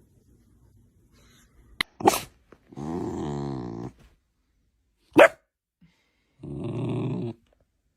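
A dog giving short sharp barks, around two seconds in and again around five seconds in. Between them come two drawn-out growls of about a second each.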